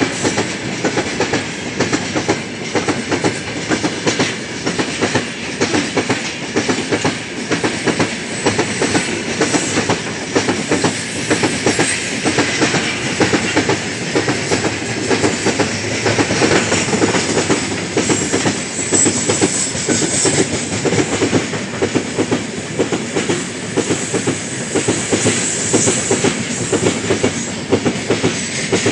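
Heavy loaded freight train of open gondola wagons passing close by at speed: a steady, loud clatter of wheels over the rail joints and a continuous rolling rumble.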